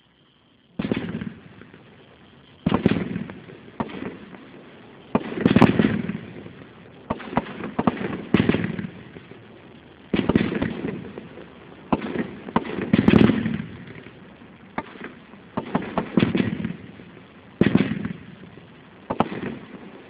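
Brothers Pyrotechnics 'Fanfare' 500-gram, 24-shot firework cake firing its shots one after another, a sharp report every second or two, each trailing off in a fading rush of noise before the next.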